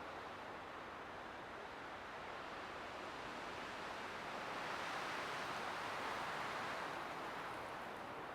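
Light winter wind blowing as a steady hiss, swelling in a gust about halfway through and easing again near the end.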